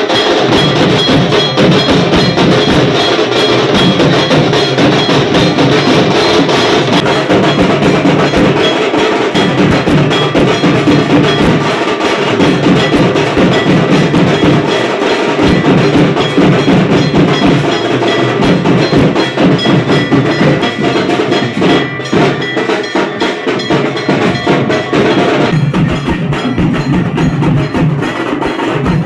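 Fast, dense percussion with ringing metallic strikes and knocking beats, going on without a break.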